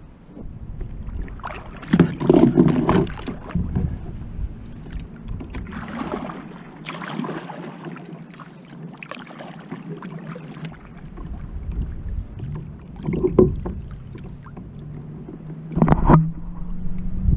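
Kayak on the sea: irregular splashes and knocks of water and gear against the hull, four louder bursts over a low rumble, with a faint steady hum in the second half.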